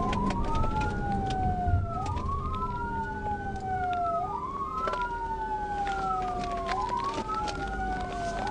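Police car siren wailing, its pitch rising quickly and then sliding slowly down about every two and a half seconds. Under it run a steady hum and the rumble of the pursuing car.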